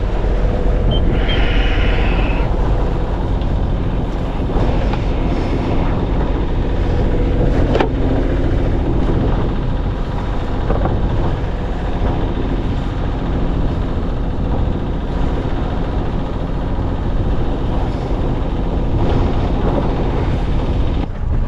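Sailing yacht's engine running steadily under way, a constant low mechanical drone with a brief higher-pitched sound about a second in.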